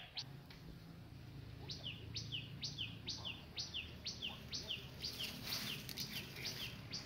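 A bird calling a long, even series of short high chirps, each a quick falling note, about three a second, starting about a second and a half in.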